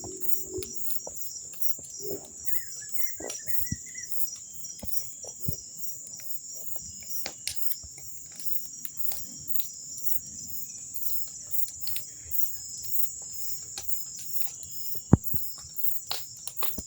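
Crickets chirring steadily, with scattered sharp crackles and pops from a bonfire of green wood, one louder pop about fifteen seconds in. A brief high chirping call comes about two to four seconds in.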